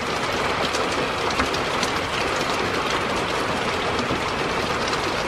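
Steady heavy rain, with scattered close drops ticking through the hiss.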